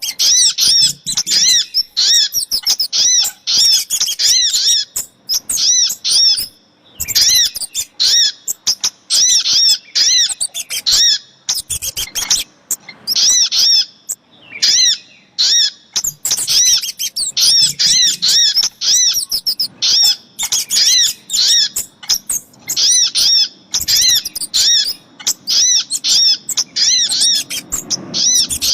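Bird-lure recording of little spiderhunter (sogok ontong) and kemade calls: rapid runs of sharp, high chips repeated over and over, broken by short pauses.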